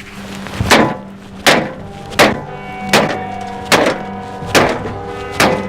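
Bat blows landing one after another, seven strikes about three-quarters of a second apart, over background music.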